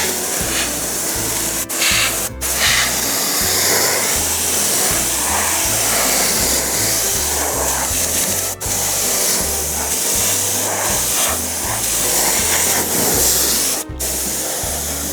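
Spray gun hissing steadily as it sprays foam adhesive, with a few brief breaks, over background music with a low bass line.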